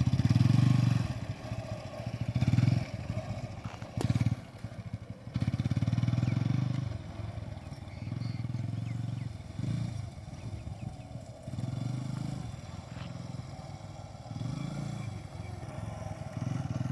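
Old motorcycle engine running, its revs rising and falling again and again as the throttle is opened and eased off. There is a sharp click about four seconds in.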